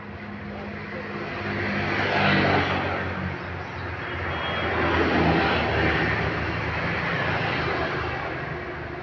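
Heavy road vehicles going past: a low engine drone with road noise that swells as one vehicle passes about two seconds in and another about five seconds in.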